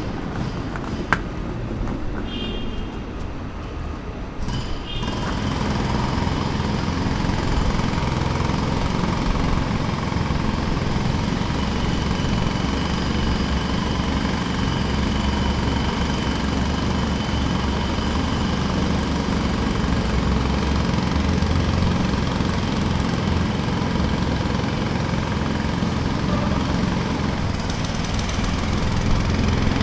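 A pneumatic jackhammer working at a construction site, with machinery running in the background. It is steady throughout and gets louder about five seconds in.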